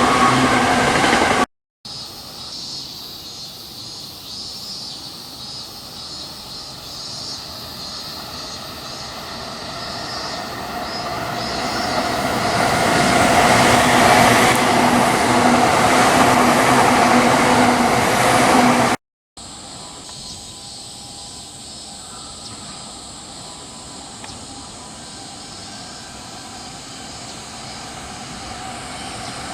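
Electric trains passing on the line, in three cut-together stretches. A loud train is cut off abruptly. Another train approaches, growing steadily louder to a loud pass with a steady hum and rail noise. A quieter stretch follows, swelling again near the end as the next train nears.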